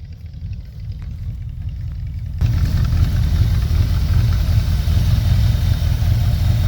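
The 1965 Chevrolet C10's engine idling with a steady low rumble. About two and a half seconds in it suddenly becomes louder and fuller.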